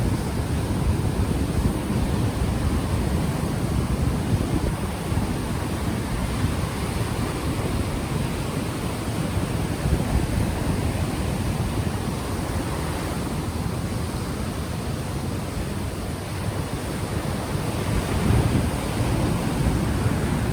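Ocean waves washing on the shore, a continuous surf noise, with wind buffeting an unshielded microphone as a low rumble.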